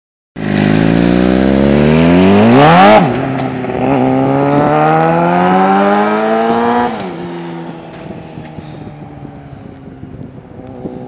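2008 Suzuki GSX-R750's inline-four through a Two Brothers aftermarket exhaust, accelerating hard: the revs climb steeply, drop at an upshift about three seconds in, then climb again through the next gear. About seven seconds in it backs off and the sound fades away.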